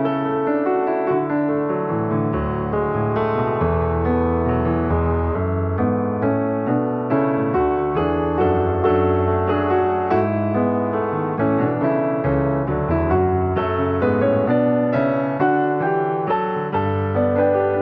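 Slow, gentle solo piano music, with sustained chords over a low bass line and a melody of struck notes.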